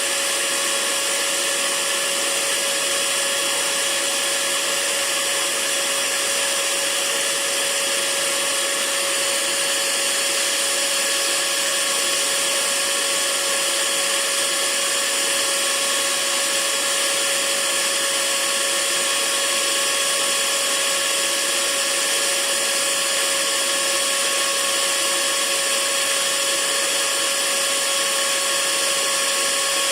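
Hair dryer running steadily: an even rush of air with a constant motor whine, unchanging throughout.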